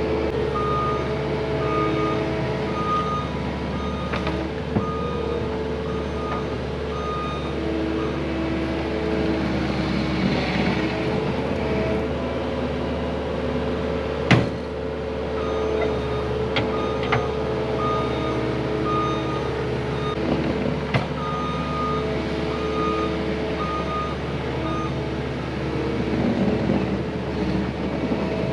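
Heavy diesel machine running steadily while its backup alarm beeps in short repeated pulses, with a few sharp knocks.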